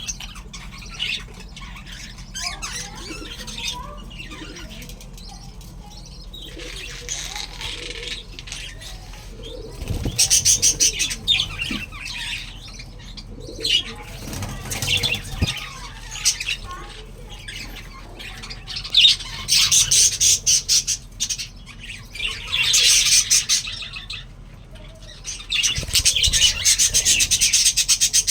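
Budgerigars chirping and chattering in a breeding colony, with several loud bursts of rapid, repeated pulsing calls.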